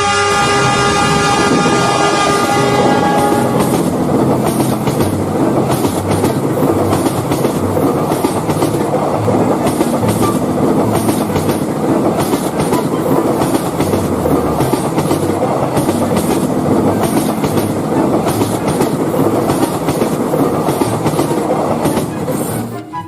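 Train horn blowing a held multi-note chord for the first few seconds, then a passing train's wheels running over the rail joints with a loud, steady rolling noise and a regular clickety-clack. The sound cuts off suddenly near the end.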